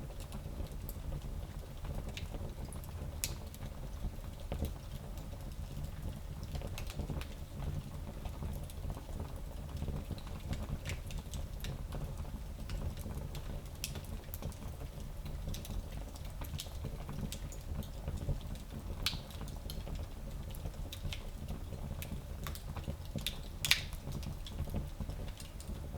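Fire in a small fireplace crackling: irregular sharp pops and snaps over a steady low rumble, with one louder pop near the end.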